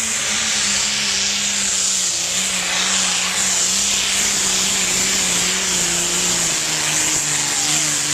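Competition pulling tractor's engine running hard under load, its pitch slowly sagging, with a loud steady hiss over it.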